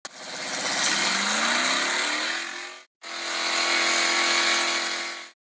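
Motor vehicle engine sound effect: it revs up, rising in pitch for almost three seconds, then breaks off. It starts again and runs at a steady high pitch for a couple of seconds.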